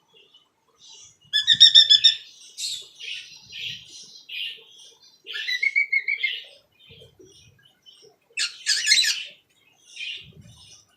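Cockatiel chirping and warbling in a run of short high-pitched calls. A quick trill comes about one and a half seconds in, a whistled note near the middle, and a loud scratchy chatter about eight and a half seconds in.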